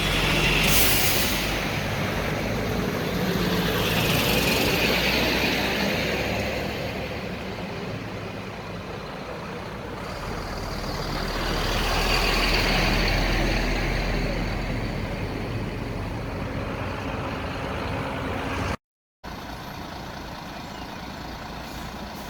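Road traffic: large vehicles such as trucks passing, their engine and tyre noise swelling and fading twice, then steadier traffic noise after a cut near the end.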